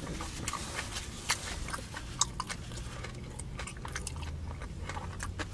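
A man chewing crab rangoon close to the microphone: wet smacking and small crunchy clicks, with two louder clicks in the first half over a low steady hum.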